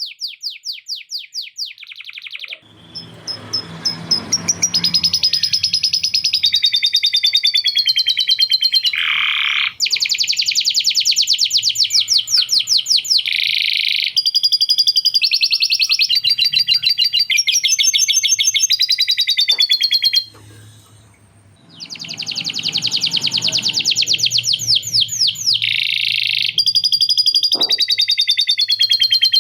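Male canary singing a long, near-continuous song of rapid rolling trills, with lovebird-style chattering phrases worked in. There are short pauses about 2.5 s in and around two-thirds of the way through.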